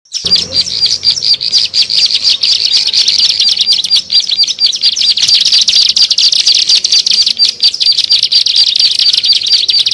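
Ciblek sawah (a small prinia) singing a fast, unbroken run of high, rapidly repeated chirps, as played on a lure recording used to attract the bird.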